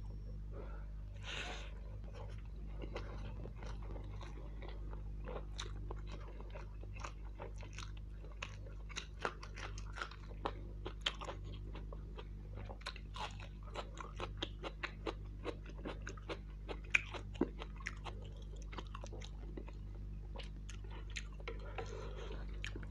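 Close-miked chewing of mouthfuls of mutton kofta biryani eaten by hand: wet mouth sounds with many short sharp clicks, thickest through the middle, over a steady low hum.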